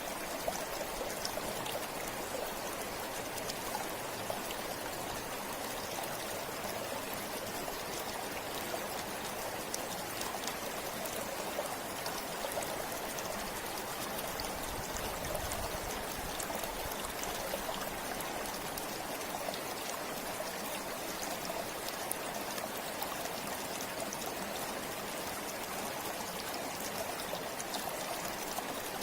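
A river flowing steadily over stones, a continuous rush of water with small splashes and trickles.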